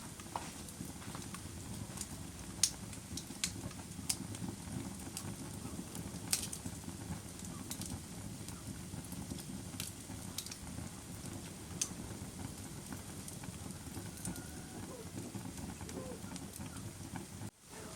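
Campfire burning: a steady low rush of flames with sharp pops and crackles scattered a second or two apart.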